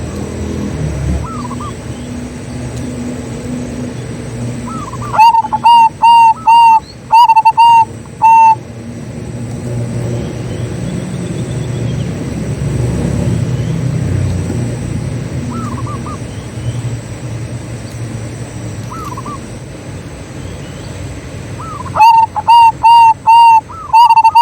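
Zebra dove singing: two loud phrases of quick cooing notes at one pitch, about eight notes each, one starting about five seconds in and another near the end, with faint bird calls in between.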